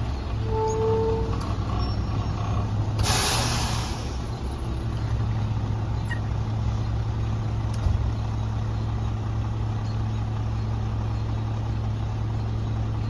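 Garbage truck's diesel engine idling steadily, with a sharp air-brake hiss lasting about a second some three seconds in. A short beep sounds just after the start.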